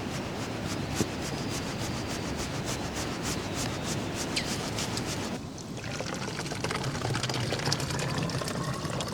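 Rain pattering steadily, a dense rush of tiny drop-ticks. About halfway through the sound shifts, and a low steady hum comes in under the patter.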